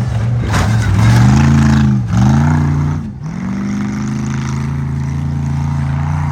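Competition truck engine revving hard: the pitch climbs, dips sharply about two seconds in, climbs again and drops off about a second later, then holds a steady drone.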